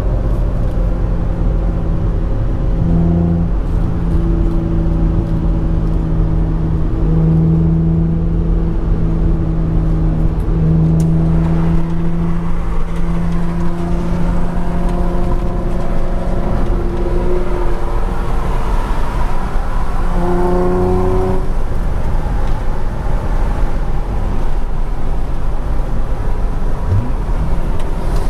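Infiniti G35's V6 running at a steady cruise, a continuous drone over heavy low road rumble, with a brief rise in pitch about twenty seconds in.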